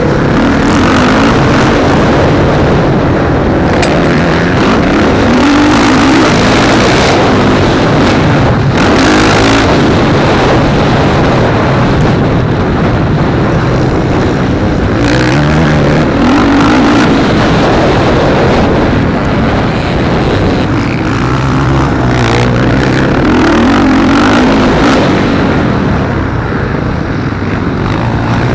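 Motocross bikes racing, engines revving hard with the pitch climbing and dropping again and again, loud and unbroken.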